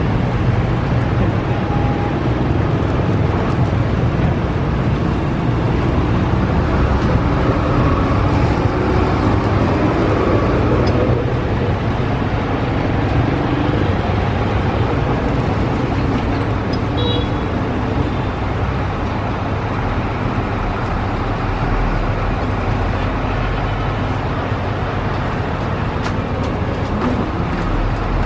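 Steady road traffic and vehicle engine noise, a continuous low rumble.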